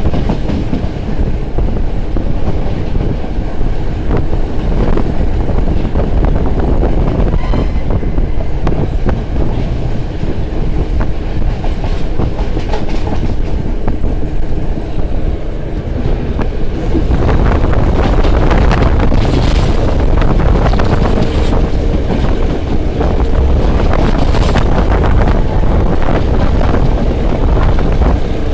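Passenger train running along the track, heard through an open carriage window: a steady rumble of wheels on rails with clickety-clack from the rail joints, growing louder and harsher a little past halfway.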